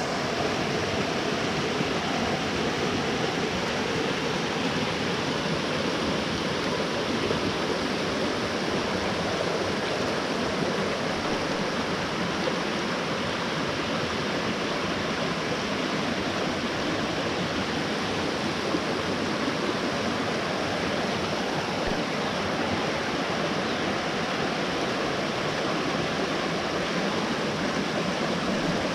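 A forest mountain stream running full after heavy rain: steady rushing and splashing of water over rocks.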